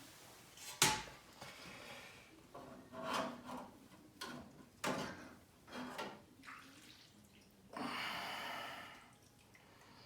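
Handling and water sounds: a sharp knock about a second in, then several short splashes and a longer splashing rush of water near the end.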